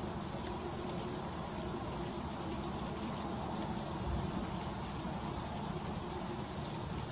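Freezing rain falling steadily, a dense patter of fine ice pellets and drops ticking on frozen surfaces.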